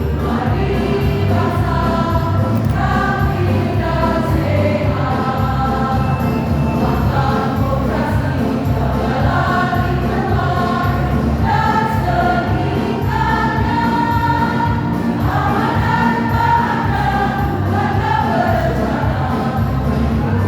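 A choir singing in parts over a steady low musical accompaniment.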